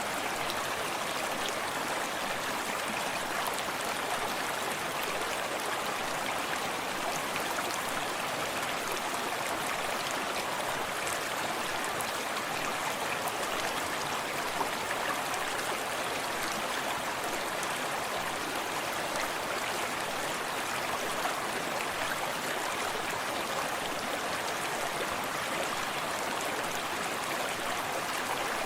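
Small forest stream running steadily, a continuous even rush of water with fine splashes and lapping.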